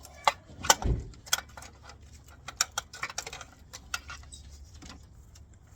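A distributor being worked up and out of a Ford 302 V8 and handled: a series of sharp clicks and knocks, with a heavier thud about a second in, thinning out toward the end.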